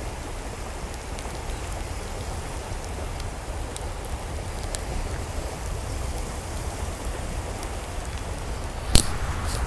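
Steady rush of water with scattered small drip-like ticks. A sharp click about nine seconds in is the loudest sound, with a weaker one half a second later.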